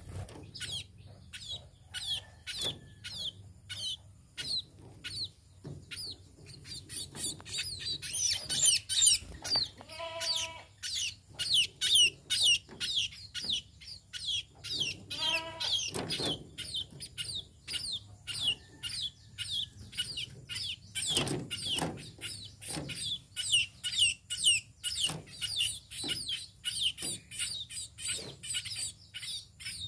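Munias chirping: a rapid, continuous run of short, high chirps, with two longer, lower calls about ten and fifteen seconds in.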